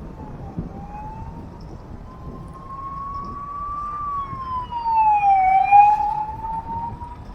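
A siren wailing: one tone slowly rises, falls sharply and rises again, loudest a little past the middle, over the low rumble of road traffic.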